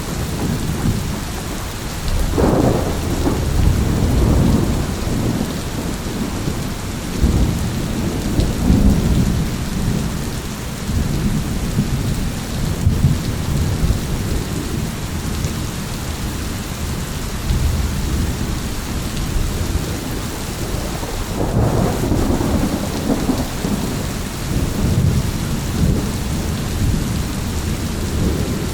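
Steady rain falling through a thunderstorm, with thunder rumbling underneath and rolling up louder twice, once a couple of seconds in and again about two-thirds of the way through.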